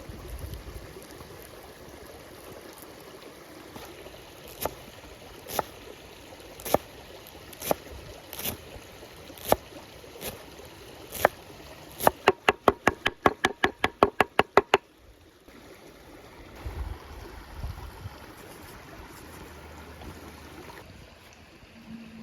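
Sharp knocks on a hard surface, first spaced about a second apart, then a fast run of about eight a second for nearly three seconds that stops suddenly, over a steady rush like running water.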